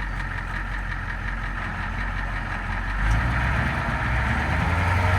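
Diesel truck engine running steadily, then pulling harder about three seconds in, its low hum swelling louder and holding there.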